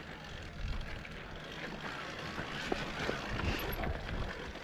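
Wind buffeting the microphone over the rumble of an electric mountain bike riding a dirt trail, with a few light knocks from the bike over bumps.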